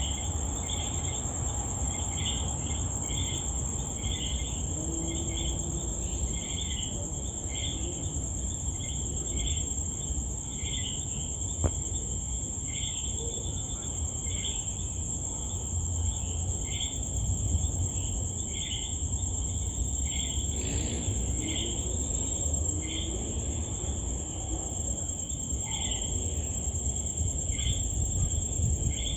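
Insects calling: one high, unbroken trill, with shorter, lower chirps repeating roughly once a second over a low rumble. There is a single sharp click near the middle.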